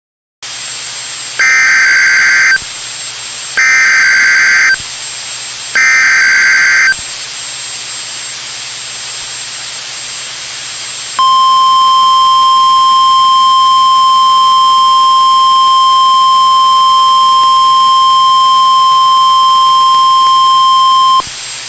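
NOAA Weather Radio emergency alert: three short bursts of the SAME digital header, then the steady warning alarm tone held for about ten seconds over radio hiss. This alert sequence signals that a warning, here a tornado warning, is about to be read.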